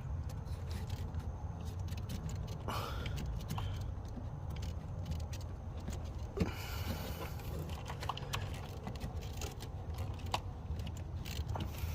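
Small clicks, taps and rattles of hands working a plastic quick-lock heater hose connector and hose in an engine bay, with one sharper click about six seconds in. A steady low rumble runs underneath.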